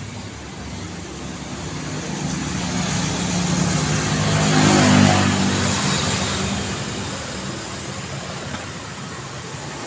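Road traffic with a single car passing close by: its engine and tyres grow louder to a peak about halfway through, then fade away. A steady hum of road noise runs underneath.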